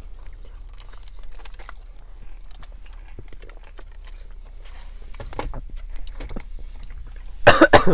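Close-up eating sounds: chewing and biting on fried chicken fingers, with small crackles of paper food packaging, over a low steady hum.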